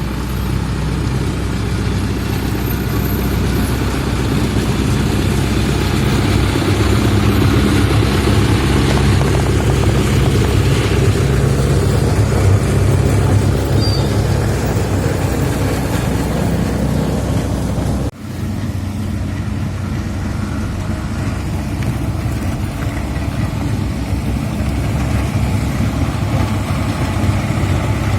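Heavy diesel engines of road-paving machinery running steadily, with a brief dropout about two-thirds of the way through.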